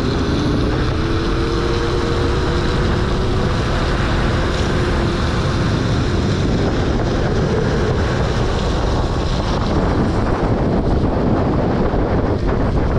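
Loud, steady wind buffeting the microphone of a moving electric unicycle, with a faint whine that rises slightly in pitch through the first half and then fades.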